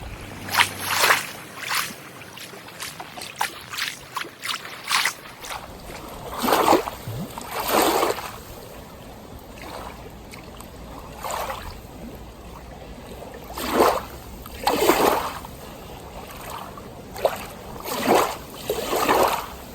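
Lake water lapping and splashing in irregular surges, one every second or two.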